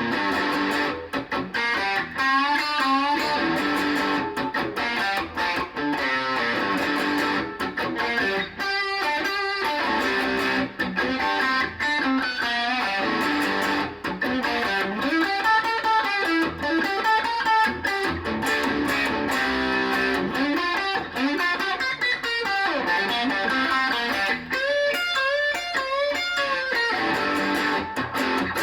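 ESP LTD EC-1000 electric guitar with active EMG pickups played continuously, melodic lead lines with sustained notes, string bends and vibrato.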